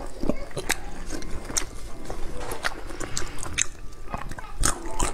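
Close-miked eating of braised trotter meat and skin: wet chewing with sharp, irregular mouth clicks and lip smacks.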